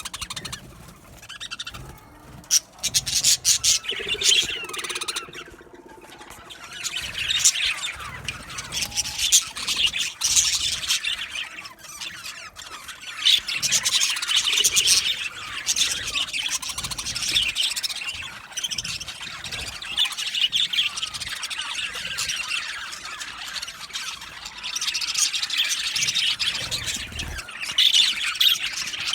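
A flock of budgerigars chattering and chirping together, many birds at once, swelling and fading every few seconds.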